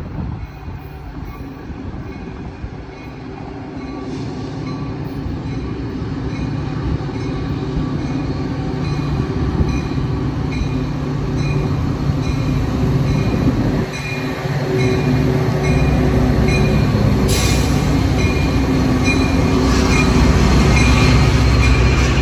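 Metra commuter train with its diesel locomotive approaching and then passing close by, the locomotive's rumble growing steadily louder. A bell rings at a steady, regular pace, and there is a brief hiss about three quarters of the way through.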